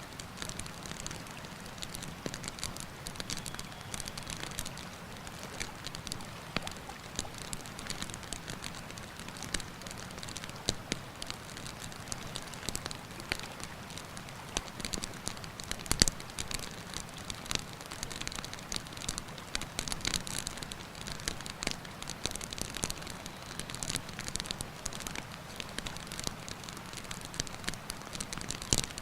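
Wood campfire crackling with frequent irregular pops and snaps, one sharper pop about halfway through, over the steady rush of a mountain river.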